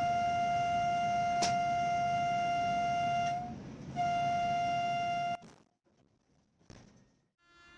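A horn sounding one steady note in two long blasts with a short break between, cutting off sharply about five seconds in; a few faint knocks follow.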